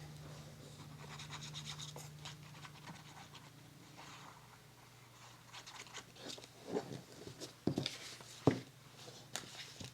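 Paper being handled and folded: soft rustling, then a few sharp crinkles and taps in the second half.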